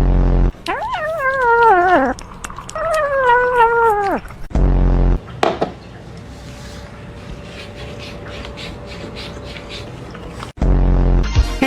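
A cat meowing twice, two long drawn-out meows that each slide down in pitch, with a few short low thumps between them.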